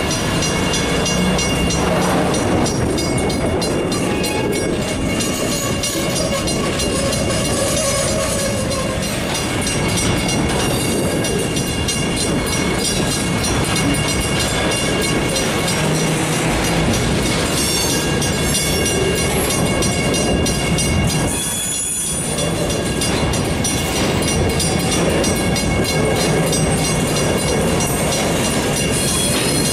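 Freight cars rolling past, steel wheels running on the rails with a steady rumble and some clickety-clack.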